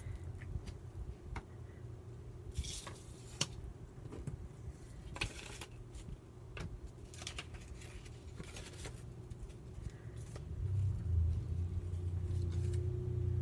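Paper handled and cut at a craft table: several short rustles and scrapes with a few small clicks. Under them is a low steady rumble that swells about ten seconds in.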